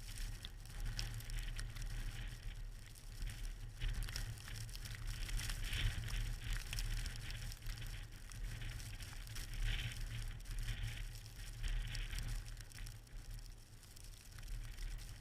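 Blizzard wind buffeting the microphone in an uneven low rumble, with a steady light crackling and patter over it.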